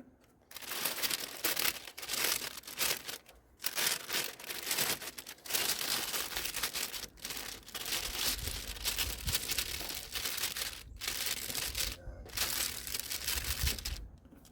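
Masking paper crinkling and rustling as it is handled for car paint prep, in several stretches of a second or more with short pauses between; a low rumble joins in during the second half.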